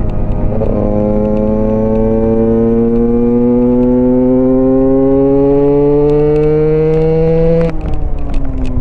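Single-cylinder Husqvarna supermoto engine pulling hard under acceleration, its note climbing steadily for about seven seconds, then dropping abruptly near the end and falling as the revs come down.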